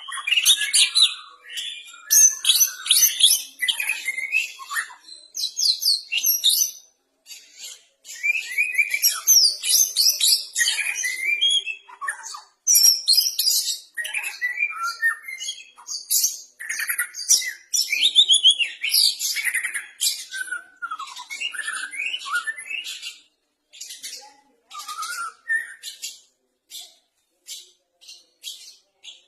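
White-rumped shama (murai batu) singing a long, varied song of quick trills, whistles and sliding notes in rapid phrases. Near the end the song breaks into shorter, spaced repeated notes.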